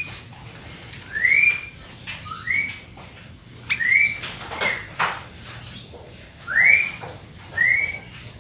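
A kutilang (sooty-headed bulbul) whistling about half a dozen short notes, each sliding upward and levelling off, at uneven intervals, with a couple of sharp clicks in between.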